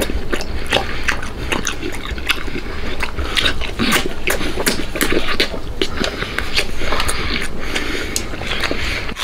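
Close-miked wet eating sounds of braised pork large intestine being bitten, sucked and chewed: a dense run of wet smacks, clicks and slurps.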